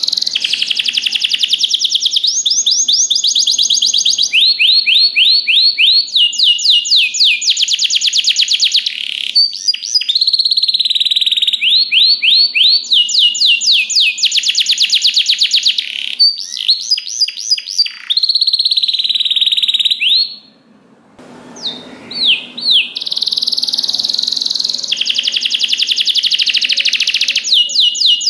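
Domestic canary singing a long, loud song made of fast trills: runs of rapidly repeated notes, the phrase changing every second or two. There is a brief break about three-quarters through.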